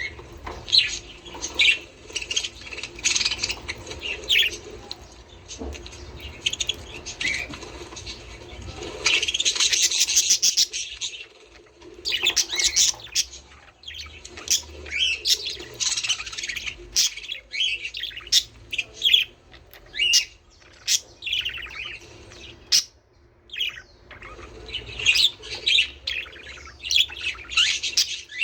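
Budgerigars chattering: a fast run of short high chirps and warbles, thickening into dense continuous chatter about a third of the way in.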